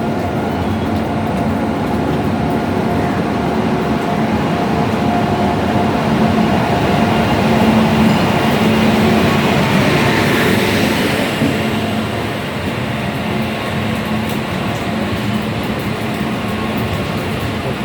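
Indian Railways passenger train running on the rails: a continuous rumble with a steady hum. It grows louder about halfway through, with a brief rise in hiss, then settles back.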